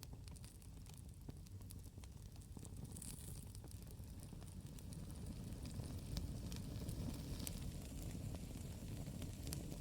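Campfire burning: scattered sharp crackles and pops over a low steady rumble, which grows a little louder about halfway through.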